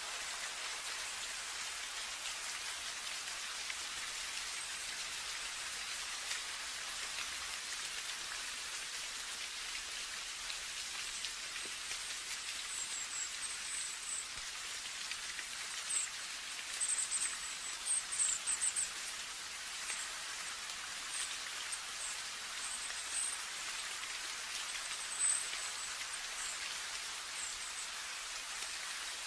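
Steady rain falling, an even hiss. From about the middle on, short, high chirps come and go above it.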